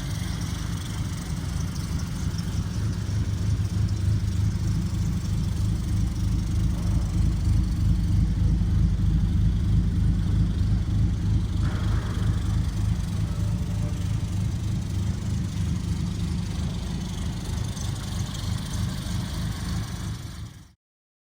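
Mini Clubman Estate's BMC A-series four-cylinder engine idling steadily, then cutting off suddenly near the end.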